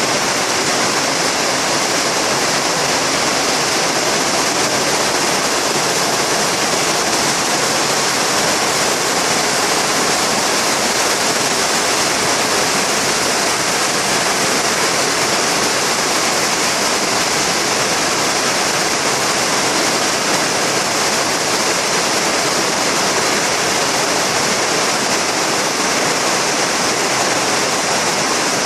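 Heavy rain pouring down, a steady unbroken hiss.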